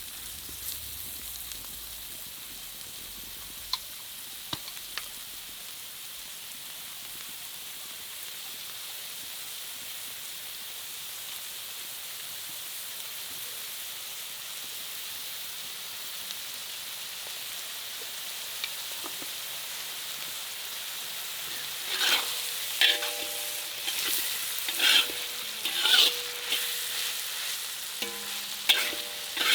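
Food sizzling as it fries in a pan, a steady hiss. In the last several seconds a utensil stirs and scrapes against the pan in a run of sharp strokes.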